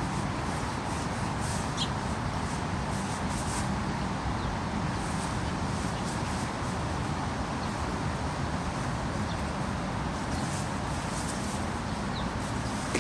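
Heavy rain falling steadily, a dense even hiss, with a few faint, brief high chirps.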